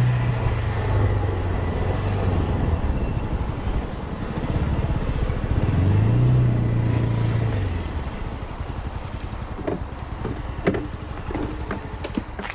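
A 100cc motorcycle engine running at low speed as the bike rolls to a stop. Its note drops near the start, rises briefly about six seconds in, then fades out near eight seconds. A few short clicks and knocks follow.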